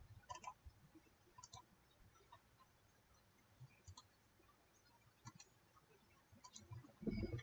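Computer mouse clicking now and then, several as quick double clicks, over near silence; a soft low noise comes near the end.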